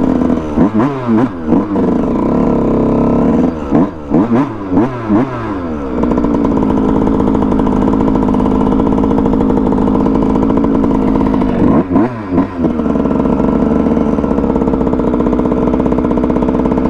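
Dirt bike engine running under way, mostly at a steady speed, with the revs rising and falling in quick throttle blips about a second in, again around four to six seconds, and once more around twelve seconds.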